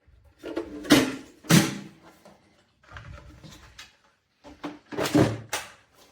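Handling noises: a few sharp knocks and clattering rustles in two clusters, one about a second in and another around five seconds in.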